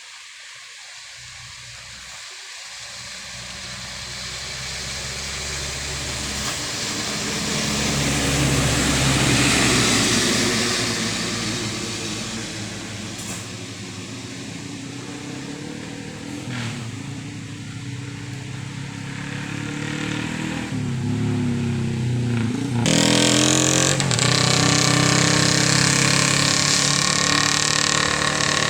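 Heavy dump trucks' diesel engines passing on a rain-soaked road, with the steady hiss of heavy rain and tyre spray. One truck builds to its loudest about ten seconds in and fades; another comes on louder from about twenty seconds, with a sudden surge of spray hiss about three seconds later.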